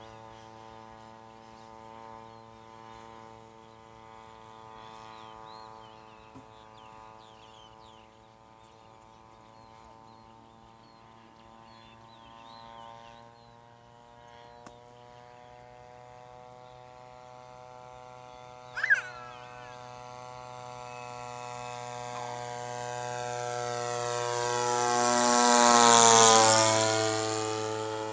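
Radio-controlled model aeroplane powered by a brush-cutter engine droning steadily in flight, then swelling as it makes a close fly-past near the end, its pitch dropping as it goes by. A single sharp click about two-thirds of the way through.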